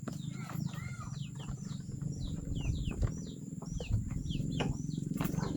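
Small birds calling: a run of short chirps, each falling in pitch, several a second, with a few lower arched notes about a second in. Under them is a steady low hum, with scattered sharp clicks and rustles.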